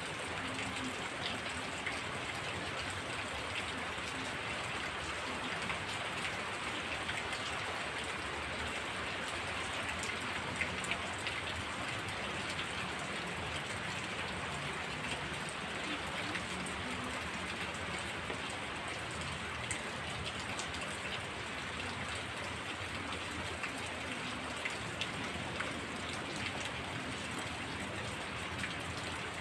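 Heavy rain falling steadily, with scattered sharper drop ticks through the even hiss.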